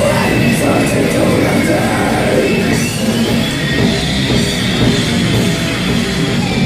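Live heavy metal band playing loud and without a break: distorted guitars over a drum kit.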